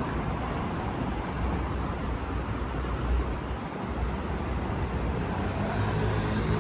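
Steady city street noise: road traffic running past, with a low rumble.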